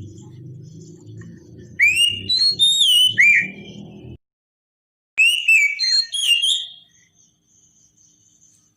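Oriental magpie-robin singing: two bursts of loud, clear whistled notes that glide up and down, each lasting about a second and a half. A low hum under the first burst cuts off abruptly.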